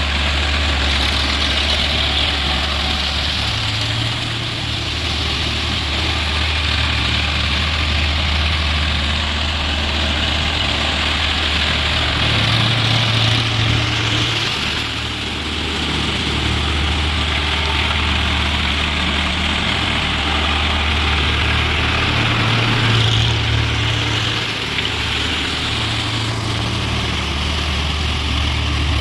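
Tractor diesel engine running steadily, its low note stepping up and down a few times as the revs change.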